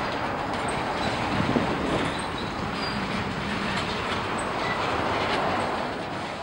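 Freight cars rolling on the rails, a steady rail rumble with a few faint, short, high wheel squeals.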